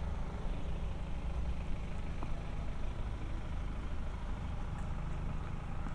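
Steady low hum of an idling vehicle engine, with a faint click about two seconds in.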